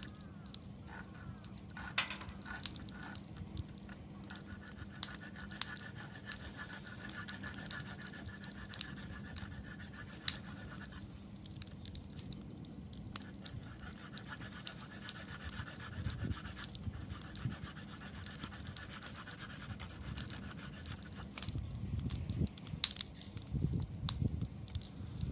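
Wood campfire burning: sharp crackles and pops scattered over a low rush of flames, the flame noise swelling louder near the end.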